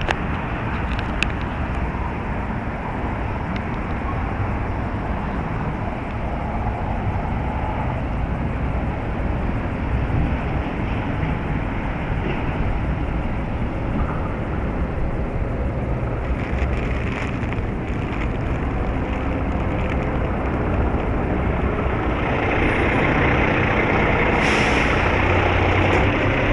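Strong wind buffeting the microphone: a steady, rumbling rush, a little louder near the end.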